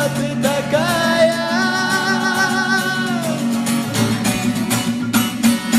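Singing voice holds one long wavering note over strummed acoustic guitar; the voice drops out about three seconds in and the guitar strums on alone.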